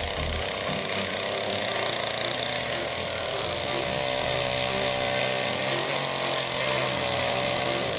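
Chainsaw engine running steadily at speed.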